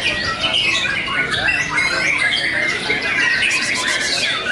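White-rumped shamas (murai batu) singing in competition: a dense stream of fast whistles, chirps and harsh chattering notes, with a quick rattling trill near the end.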